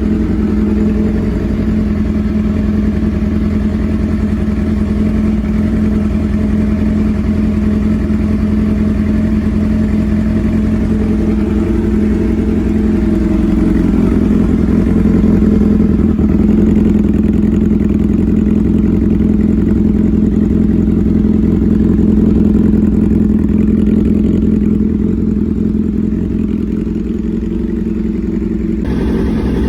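Yamaha R6 inline-four running through an SC-Project aftermarket exhaust, held at one steady engine speed with no revving or pass-by, loud and even. The sound changes abruptly near the end.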